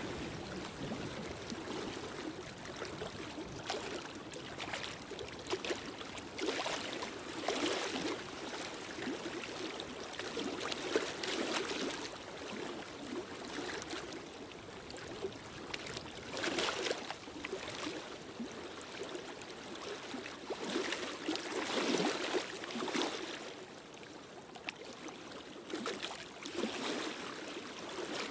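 Fireplace fire crackling and hissing, with irregular sharp pops over a steady rush.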